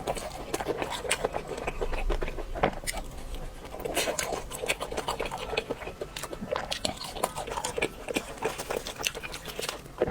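Close-miked chewing and crunching of crispy fried food: irregular crackling bites and mouth sounds throughout.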